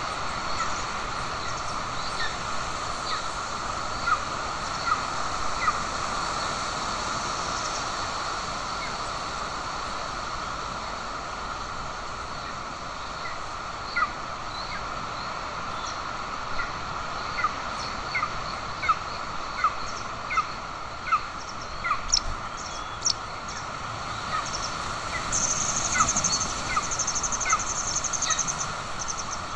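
Golden eagle chick giving repeated thin, short, down-slurred begging peeps while being fed at the nest, over a steady hiss of outdoor background noise. A brief, very high, rapid trill joins near the end.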